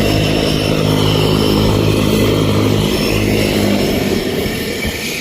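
Cessna 208 Caravan's turboprop engine and propeller running steadily, a low pitched hum over a constant rushing noise. The hum fades out about four seconds in while the rushing noise carries on.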